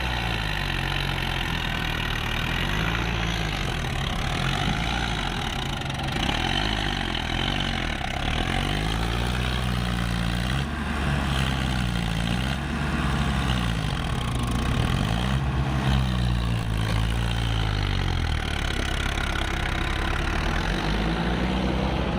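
Diesel tractor engine running steadily, its note rising and falling every second or two.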